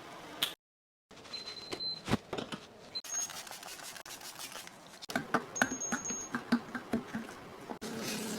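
Clicks, knocks and clatter of containers and food items being handled and set down, growing busier in the second half, with a few short high beeps.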